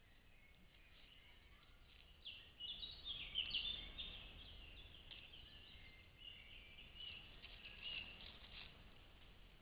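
Faint birdsong: quick runs of short chirping notes, busiest a couple of seconds in and again near the end, over a low background hiss.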